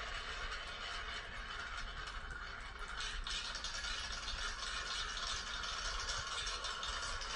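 Marbles rolling and clattering down a marble-run track, a steady rattling rumble with many small clicks that grows louder about three seconds in.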